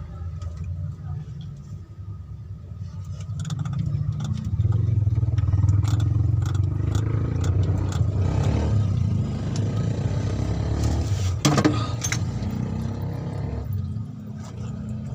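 A vehicle engine rumbling, growing louder about three seconds in and easing off near the end, with a brief metallic clatter partway through.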